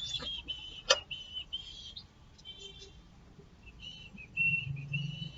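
High whistled notes in short, slightly gliding phrases, with a sharp click about a second in and a low hum near the end.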